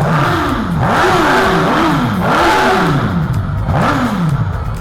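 Suzuki GSX-S1000's inline-four engine revved in five quick throttle blips, the pitch rising and falling with each.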